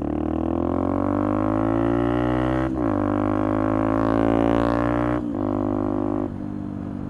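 Motorcycle engine pulling through the gears: a droning note that climbs steadily, broken by upshifts about two and a half and five seconds in, then easing off to a steady, quieter cruise near the end.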